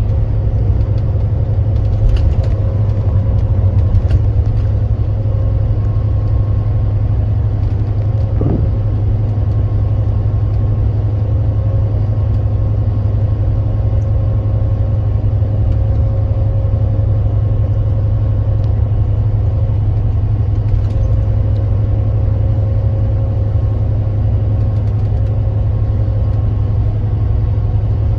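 Engine of a 2025 Kia Granbird Sunshine coach running steadily under way: a constant low drone with a faint steady whine above it. There are a few light knocks about two and four seconds in.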